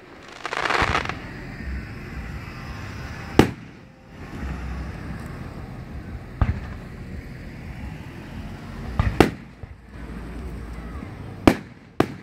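Aerial fireworks shells bursting in a series of sharp booms, about six reports a few seconds apart, two of them close together around the middle. A brief rushing hiss comes about a second in.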